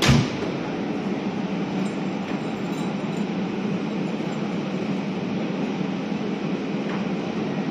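SBB double-deck commuter train rolling slowly along a station platform: a steady rumble with a constant low hum. A short sharp thump comes right at the start.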